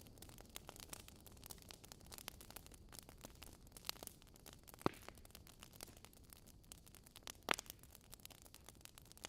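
Wood fire in a fireplace crackling: a low steady hiss with frequent small snaps and two sharper pops, about five seconds in and again about seven and a half seconds in.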